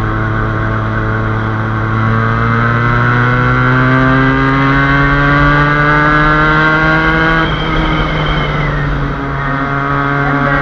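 Motorcycle engine accelerating under way: its pitch climbs steadily for about five seconds, drops sharply at a gear change, then holds steady, over low wind rumble on the microphone.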